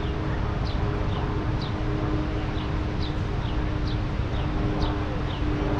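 A songbird repeating a two-note call about once a second, each note a quick downward chirp, the second lower than the first. Under it runs a steady low rumble with a faint hum.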